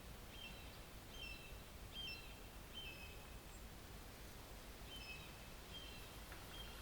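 A songbird giving short, high chirps about once a second, pausing briefly midway and then starting again. Underneath is the steady low rumble of distant highway traffic.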